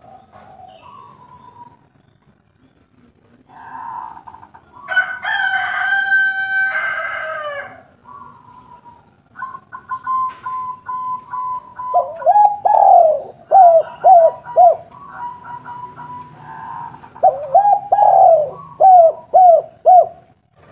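Spotted doves (tekukur) cooing, in two runs of quick, falling coos in the second half. A single long crowing call sounds about five seconds in.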